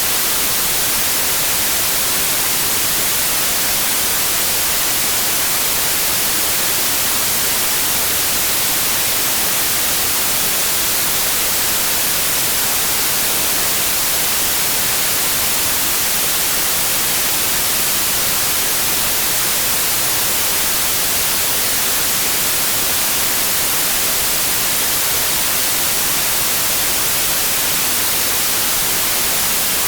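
Steady white noise: an even, unbroken hiss, strongest in the high range, with no change in level.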